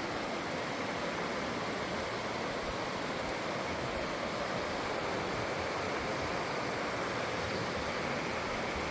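Clear water flowing, a steady even rush with no breaks.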